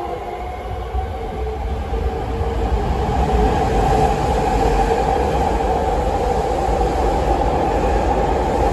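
Saitama Railway 2000 series electric train pulling out and running away down the line: a steady rumble of wheels and motors that grows louder over the first few seconds and then holds.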